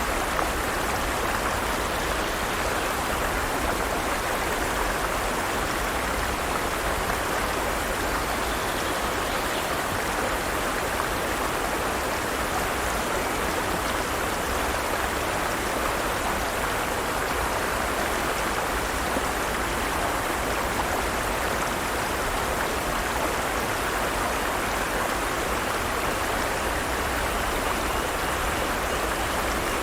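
Forest stream running steadily: an even rush of flowing water over rocks.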